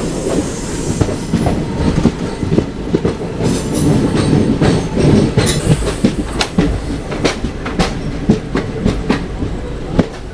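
Express passenger train running on the rails: a steady wheel-and-coach rumble with irregular sharp clacks of the wheels over the track.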